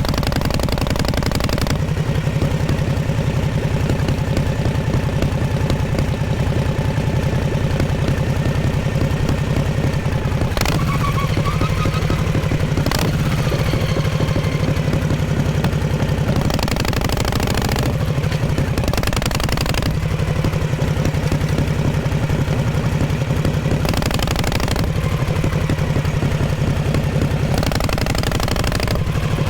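1948 Harley-Davidson Panhead V-twin running through its exhaust at a steady pace. About a third of the way in the engine note drops and then picks back up. Short rushes of wind noise come and go several times.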